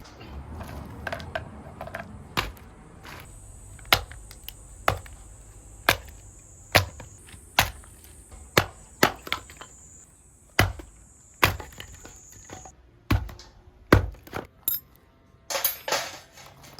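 Firewood being split with a nata (Japanese hatchet): about fifteen sharp chopping strikes into wood, roughly one a second at an uneven pace.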